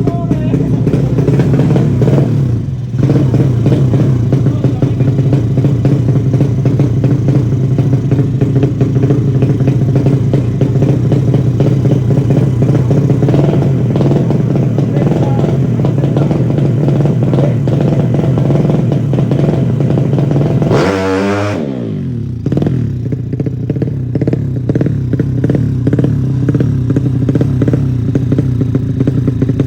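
Bored-up 150 cc Honda Supra single-cylinder four-stroke motorcycle engine held at high revs, with the top-end noise that the owner calls strange. The revs dip for a moment about three seconds in, and about 21 seconds in they fall sharply and climb straight back up.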